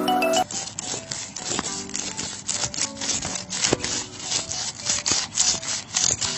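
Rapid, irregular scraping and clicking of something rubbing against a hard surface, a few strokes a second. The tail of a music jingle cuts off about half a second in.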